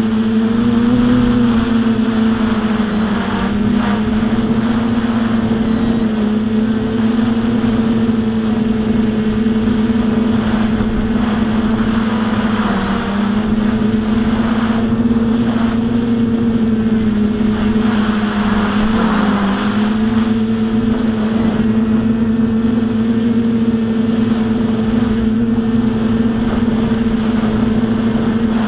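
TBS Discovery quadcopter's electric motors and propellers whining steadily in flight, the pitch wavering slightly as the throttle shifts.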